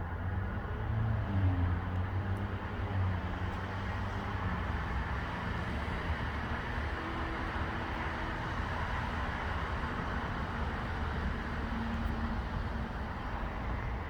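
A motor vehicle's engine running nearby, loudest about a second and a half in, over a steady rushing noise.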